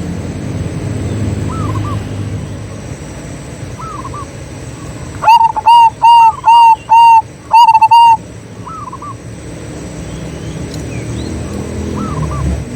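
Zebra doves cooing: in the middle comes a loud, close run of about eight short, even cooing notes, while fainter cooing repeats every couple of seconds under a low background rumble.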